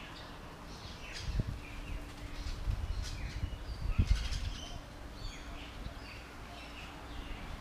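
Small birds chirping and calling in quick short notes throughout, with a few low thumps and rumbles between about one and four seconds in.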